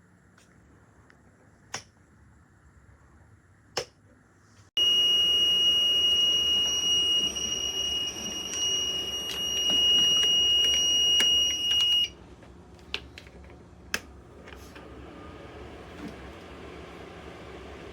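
Ceramic space heater being switched on: a few button clicks, then about five seconds in its fan starts loud with a steady high-pitched whine over the rush of air. The whine cuts out after about seven seconds and the heater drops to a quieter steady blowing.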